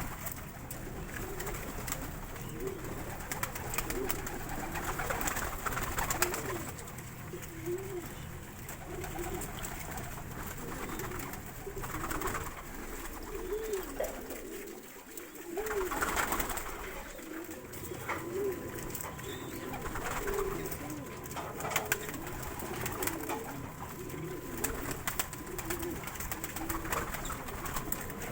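Pigeons cooing over and over, a low warbling call repeating every second or so, with some scattered rustling.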